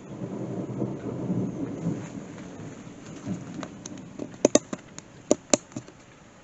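Thunder rumbling over steady rain, the rumble loudest in the first two seconds and fading away. About four seconds in comes a quick run of about six sharp taps.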